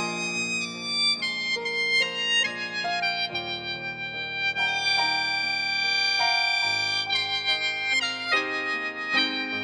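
Saenghwang, the Korean free-reed mouth organ, playing held chords of a tango melody over a synthesizer piano accompaniment, with one long sustained chord midway.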